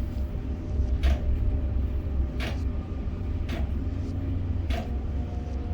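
Container crane machinery running with a steady low rumble, and five sharp metallic knocks, each with a brief ring, spaced about a second apart.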